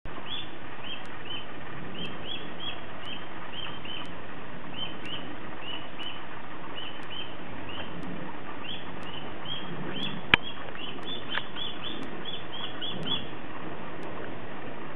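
A bird chirping over and over: short high chirps, often in pairs, about twice a second, stopping near the end. A single sharp click sounds a little past ten seconds in.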